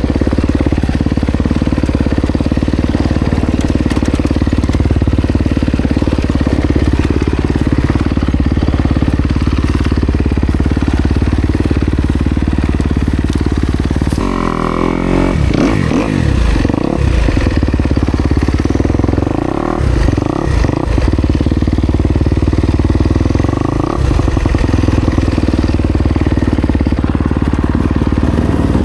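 Kawasaki KX250X two-stroke dirt bike engine running hard on an enduro trail, steady at first, then revving up and down repeatedly from about halfway through.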